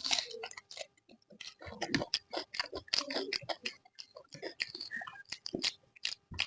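Close-up mouth sounds of someone chewing a mouthful of soft, wet food: irregular sticky, smacking clicks several times a second.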